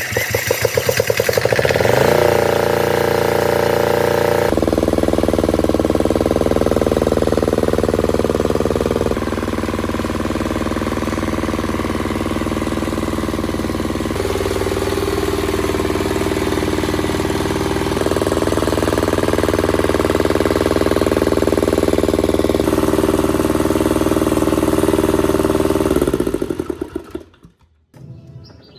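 Small single-cylinder engine of a restored classic Japanese generator starting and picking up speed in the first couple of seconds, then running steadily. About 26 seconds in it slows through a few spaced beats and stops.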